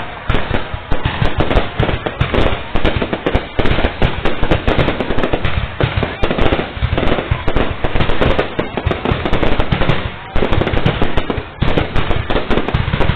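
Fireworks display: a rapid, unbroken barrage of sharp bangs and crackles.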